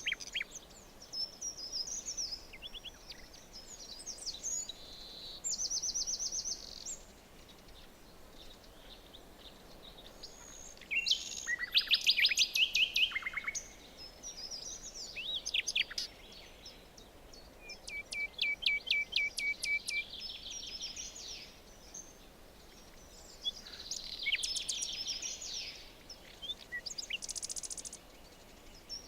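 Several songbirds singing and calling in a forest: a chorus of separate high chirps, trills and rapid repeated notes, with the loudest bursts about a third and two-thirds of the way through, over a faint steady background hiss.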